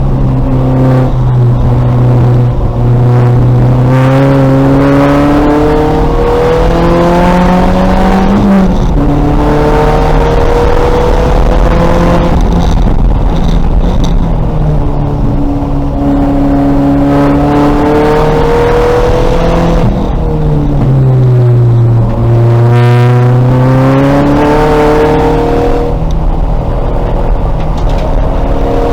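2000 VW Golf race car's engine pulling hard, its pitch climbing through the gears and dropping back at each upshift. About twenty seconds in, the revs fall away as it slows, then climb steeply again.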